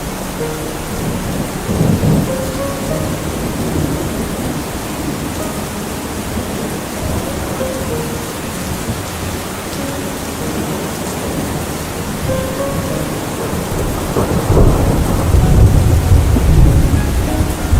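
Steady heavy tropical rain with thunder rumbling; a brief low rumble about two seconds in, and a long, louder rolling rumble over the last few seconds.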